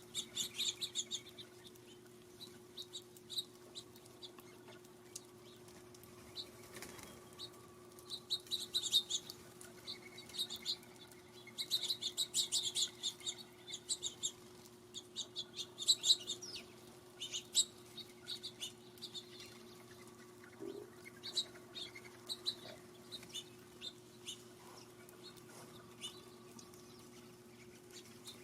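Small feeder birds chirping: many short, high chirps, busiest in the first half and sparser toward the end, over a steady low hum.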